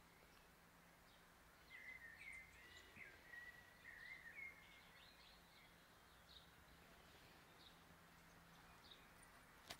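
Near silence with faint birdsong: a bird warbles and chirps for a few seconds from about two seconds in, then only scattered faint chirps.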